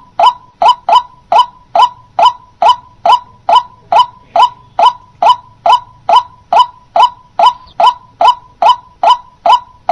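White-breasted waterhen calling, a short rising note repeated evenly about twice a second.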